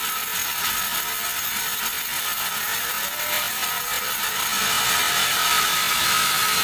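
Sawmill band saw cutting through a teak log: a steady hiss of the blade in the wood, with a steady high whine.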